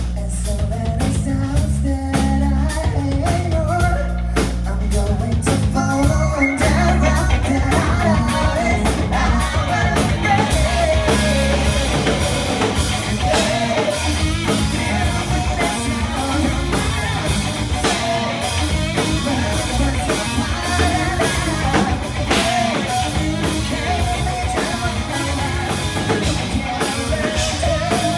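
Rock band playing live: drum kit, guitars and bass, with a singer's voice over them. The sound grows fuller and brighter about six seconds in.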